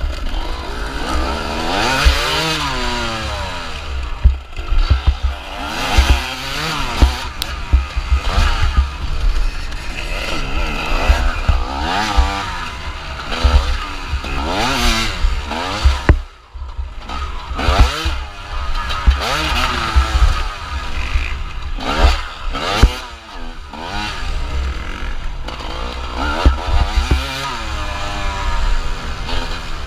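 TM 250 EN two-stroke enduro motorcycle engine, heard from on the bike, revving hard up and down through the gears under racing load, with a brief throttle-off drop about halfway through. Wind rumbles on the microphone.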